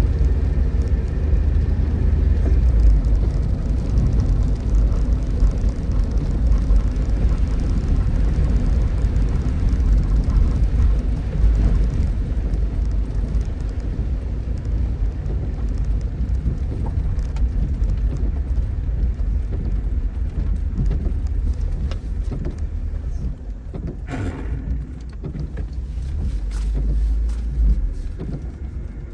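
Tofaş Doğan SLX engine running with a deep, steady rumble, with rain falling. The level dips a little over halfway through and swells again near the end, with a short knock about 24 seconds in.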